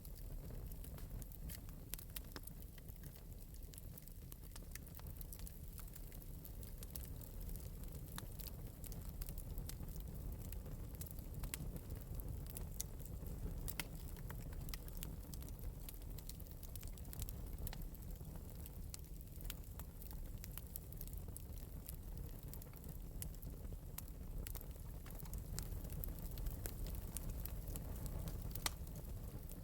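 Wood fire in an open metal fireplace, crackling lightly with frequent small sharp pops over a steady low rumble of flame.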